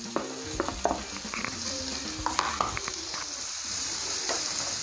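Grated bitter gourd peel sizzling in hot mustard oil in a frying pan, with several clicks and scrapes of a wooden spatula as it is stirred.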